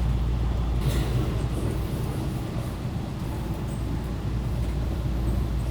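Steady running noise of an electric local train heard from inside the carriage: a low, even rumble of wheels on rails.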